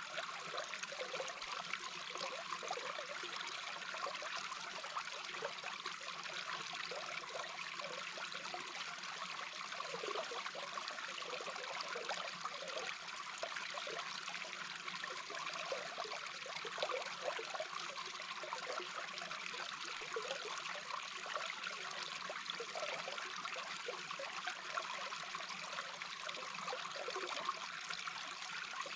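A small brook's current recorded underwater: a steady, even rush of flowing water dotted with many small, quick gurgles.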